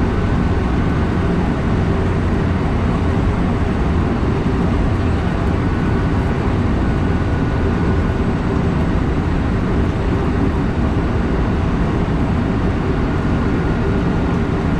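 Electric train running along the line, heard from inside: a steady low rumble of wheels on rails, with a faint high tone that comes and goes a few times.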